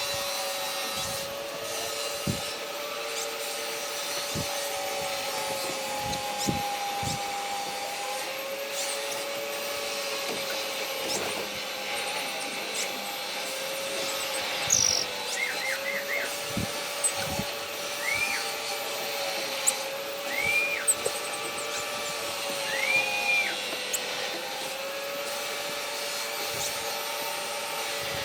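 A steady mechanical-sounding hum that wavers slightly in pitch, with scattered soft taps. In the second half come a few short chirping bird calls: a quick triple chirp, then three single arched notes a couple of seconds apart.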